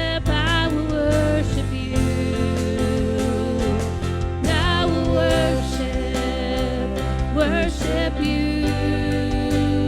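Live worship song: the band holds sustained chords over a steady low bass, while a voice sings short, wavering phrases a few seconds apart without clear words.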